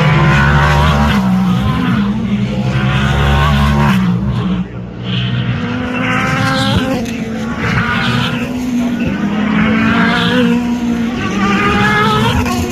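Racing cars' engines running at high revs, loud, with the pitch climbing and dropping again several times as they accelerate through the gears.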